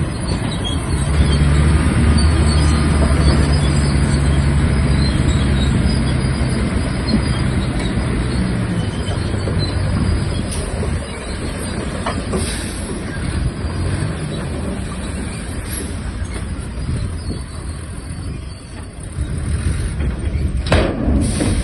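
Shantui DH17-C3 bulldozer working, its diesel engine droning under load with the steel tracks clattering. The engine's drone is strongest in the first half and eases off later, and a sharp knock comes near the end.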